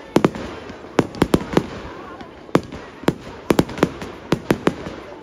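Fireworks going off in an irregular string of sharp bangs, about fifteen of them, some in quick pairs, over a steady noisy background.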